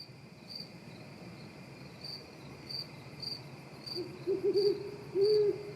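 Night-time forest ambience: a cricket chirping repeatedly over a faint steady insect tone, and from about four seconds in an owl hooting two or three times, the hoots the loudest sound.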